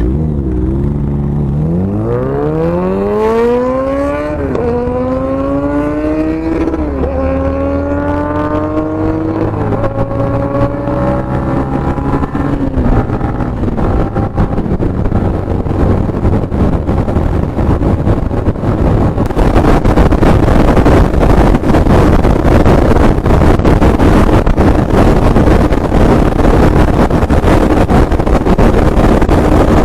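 Inline-four superbike accelerating hard through the gears: the engine note climbs, drops at each of three quick upshifts, then fades away. In the second half there is a loud, steady rush of noise with an even engine drone under it, as if riding at speed.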